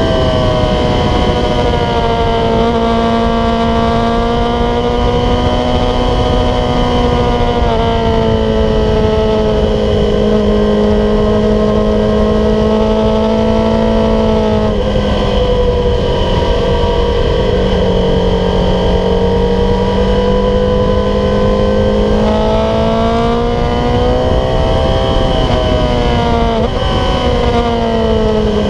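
Yamaha YZF-R6 inline-four engine running hard at high revs through a Growler aftermarket exhaust, heard onboard at speed, its note rising and falling several times as the rider works the throttle and gears. Heavy wind rush underneath.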